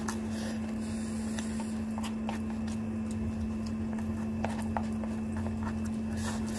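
Someone chewing fried chicken, with a few scattered small clicks and crunches, over a steady low hum.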